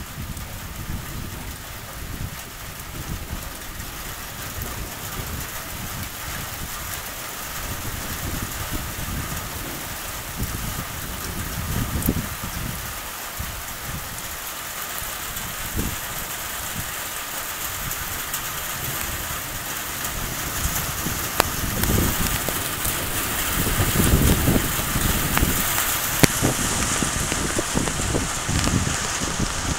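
Steady rain falling, a hiss that grows heavier over the second half, with irregular low rumbles underneath.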